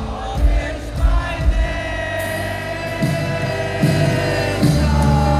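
Live band music with singing: several long held vocal notes over a few low thumps in the first second and a half, with a heavier bass coming in near the end.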